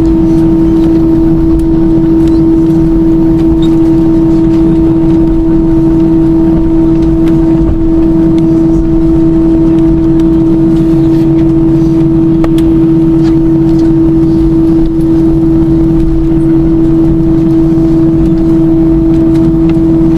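Airbus A320 jet engine noise as heard inside the cabin: a loud, steady rushing with a strong unwavering hum over it that holds without rising or falling.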